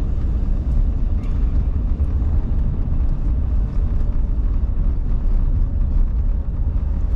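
Steady low rumble of a vehicle's engine and road noise heard from inside the cabin while driving.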